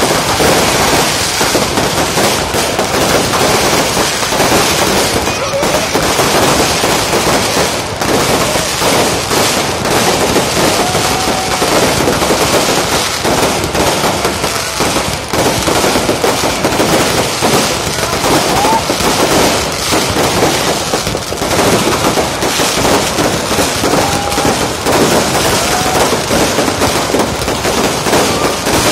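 New Year fireworks going off without a break: dense crackling and popping bursts, with crowd voices mixed in and a few short rising whistles.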